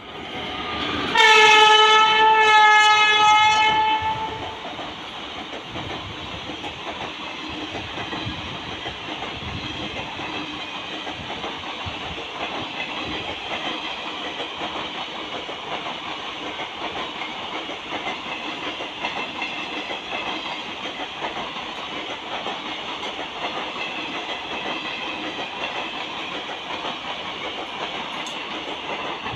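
Electric locomotive horn sounding two blasts of about a second each as the locomotive comes up, followed by a long train of vans and motor-car carrier coaches rolling past with steady noise of wheels on the rails.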